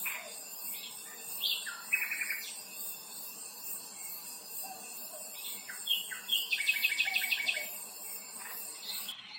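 Wild birds singing: scattered chirps and two rapid trilled phrases, one about two seconds in and a longer one around seven seconds, over a steady high hiss.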